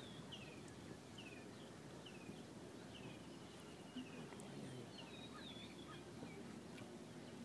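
A bird calling repeatedly, faint short falling chirps about one to two a second, over quiet outdoor background.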